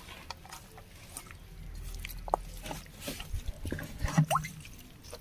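Scattered drips and wet squishing, with a few light taps, as wet chicken pieces are handled in a bowl of water.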